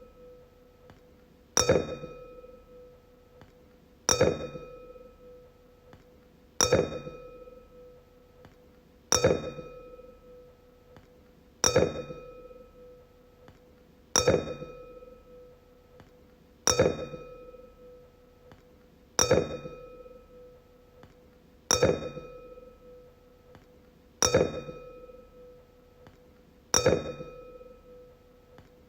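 A wine glass struck over and over, about once every two and a half seconds, roughly eleven strikes. Each strike rings at one clear mid pitch with fainter higher overtones and fades away before the next.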